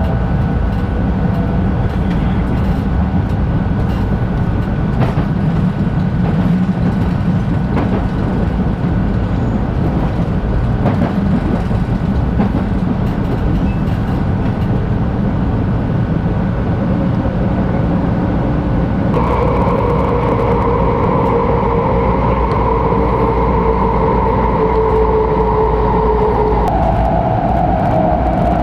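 Running noise of a 500 Series Shinkansen heard from inside the car: a steady rumble of wheels and air. About two-thirds of the way through, a whine with several tones sets in, and near the end it falls slowly in pitch.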